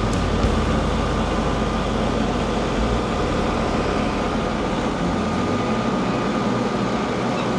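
Stihl MS 881 two-stroke chainsaw running steadily at full throttle while cutting a slab off a thick oak log.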